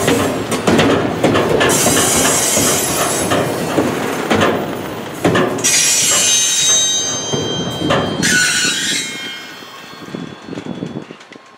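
Double-stack container well cars rolling slowly past, wheels clicking over rail joints, with several spells of high wheel squeal. The sound fades near the end.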